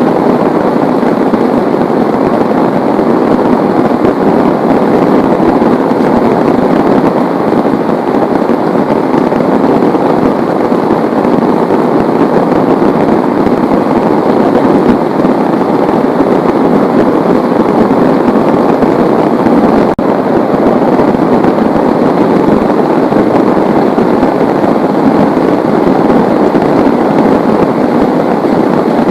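Heavy rain falling, loud and steady without a break.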